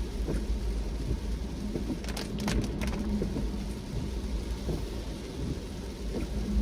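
Rain on a moving car, over a steady low rumble of the car on the road, with a short cluster of sharp clicks about two seconds in.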